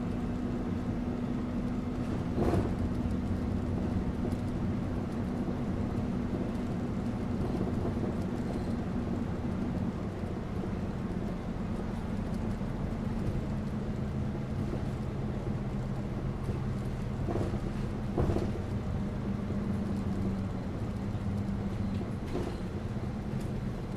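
City bus running, heard from inside: a steady low engine hum and road noise, the hum's pitch shifting down about ten seconds in as the engine speed changes. A few short knocks or rattles break through, one early and a pair about three-quarters of the way through.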